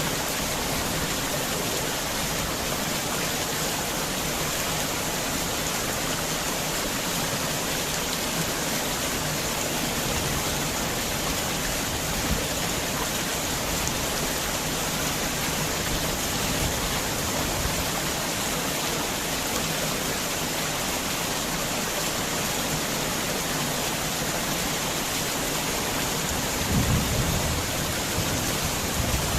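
Heavy rain falling steadily, with a low rumble of thunder near the end.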